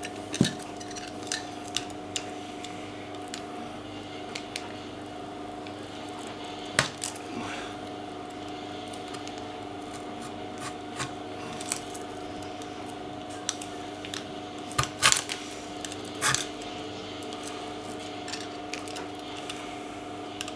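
Scattered light clicks and taps of hand tools cutting pieces out of a rubber bandsaw-wheel tyre to form a joint, a few sharper knocks about two-thirds of the way through, over a steady low hum.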